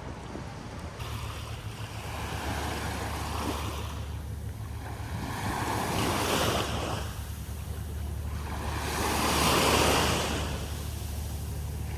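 Waves washing in on the shore, swelling and fading every few seconds, with wind on the microphone and a steady low rumble underneath.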